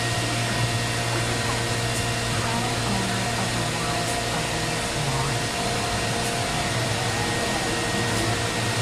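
Biesse Rover CNC machining centre running: a steady machine drone with a low hum and a thin, constant high whine.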